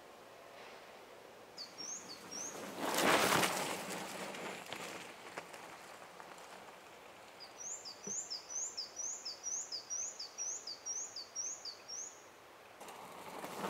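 A bird calling: a few short whistled notes near the start, then a run of about a dozen quick sliding notes, a little over two a second, in the second half. A brief rushing noise about three seconds in is the loudest sound.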